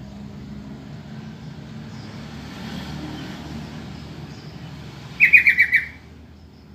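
Sooty-headed bulbul (trucukan) giving a quick chattering burst of about six rapid notes about five seconds in, over a low steady rumble.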